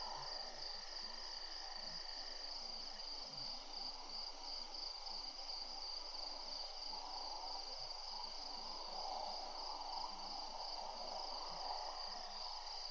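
Steady, high-pitched chorus of insects calling at dusk, with faint, irregular low sounds beneath.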